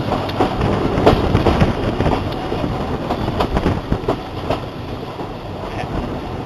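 Steam-hauled train running past: a steady rumble with a run of irregular knocks and clanks, slowly growing fainter.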